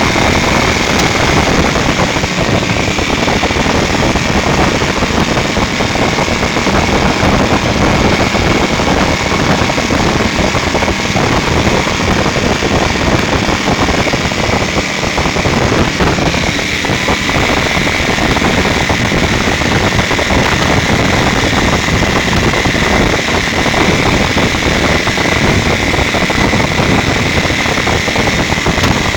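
Big-block Ford V8 in a speedboat running steadily and loudly, with a steady high whine over the engine noise that shifts slightly about halfway through.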